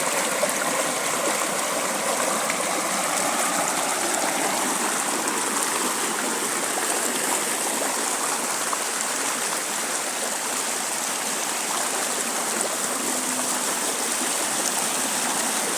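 Flowing water running steadily, an unbroken rushing sound.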